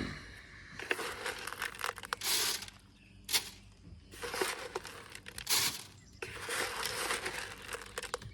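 Bird seed being scattered, rustling in several short bursts with brief pauses between.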